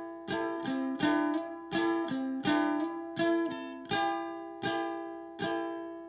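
Song intro on a plucked string instrument: chords strummed in a steady pulse, about one every three quarters of a second, each left to ring and fade.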